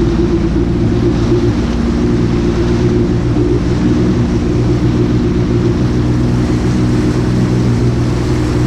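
Jet ski engine running steadily under way: an even, unchanging low drone with a hiss above it.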